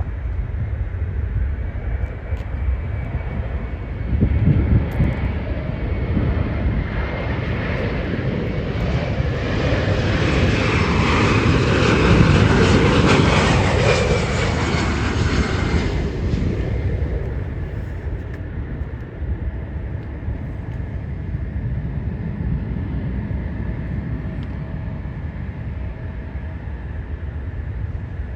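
Jet airliner engines roaring as the plane passes, with a faint high whine over the roar. The noise swells to its loudest about twelve seconds in, then falls away quickly a few seconds later.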